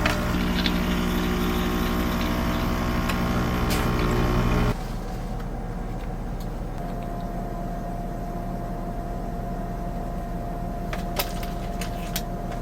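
A motor running with a steady pitched hum that cuts off abruptly about four and a half seconds in, leaving a quieter steady hum with a thin high tone.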